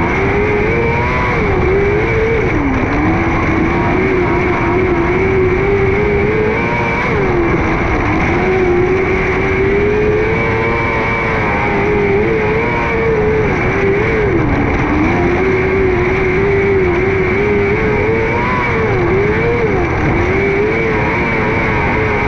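600cc micro sprint car's motorcycle engine running hard at racing speed. Its pitch dips and climbs back again every few seconds as the throttle is eased for the turns and reapplied down the straights.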